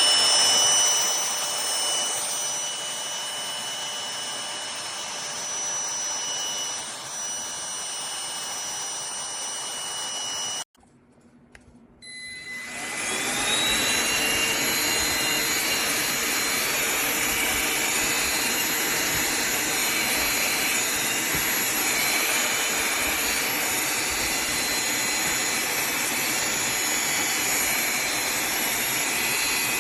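Cordless handheld vacuum cleaner motor running with a steady whirring whine. About eleven seconds in it cuts out abruptly, then starts again, spins up with a rising whine and runs steadily.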